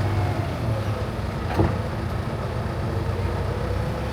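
Diesel engine of vineyard harvest machinery running steadily with a low drone, and one short click about a second and a half in.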